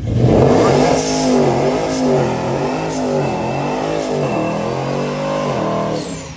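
Modern Mopar Hemi V8 revving hard, its pitch rising and falling over and over while the tyres spin in a burnout. It cuts off abruptly near the end.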